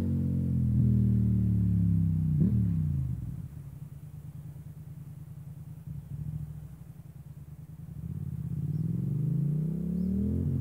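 Yamaha MT-07's parallel-twin engine through an MIVV GP carbon exhaust: the revs drop away over the first couple of seconds, the engine runs low and steady for a few seconds, then the revs climb again near the end.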